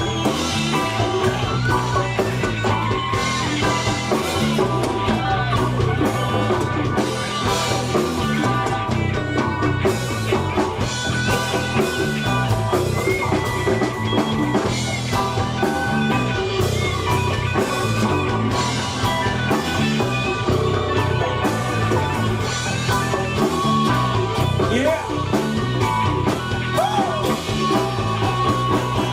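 Live band playing an instrumental passage of a rock-style song: guitar over bass and a drum kit keeping a steady beat.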